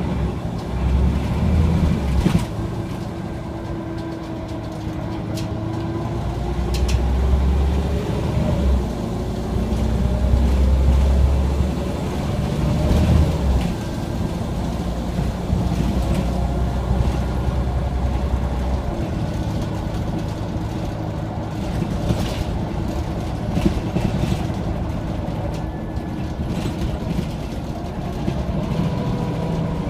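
Scania OmniCity single-deck bus's diesel engine running under way, its pitch slowly rising and falling as the revs change, with a heavy low rumble that swells several times. Scattered knocks and rattles sound over it.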